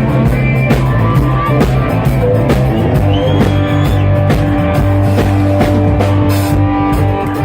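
Live rock band playing an instrumental passage: guitar over bass and drum kit with a steady beat.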